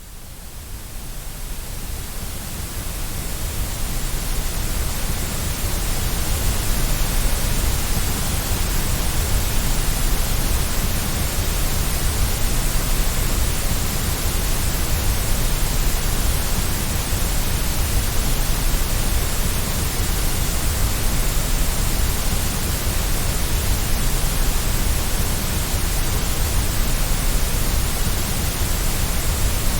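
Steady white noise, an even hiss spread from deep rumble to high fizz, played to soothe a baby to sleep; it fades in over the first few seconds and then holds level.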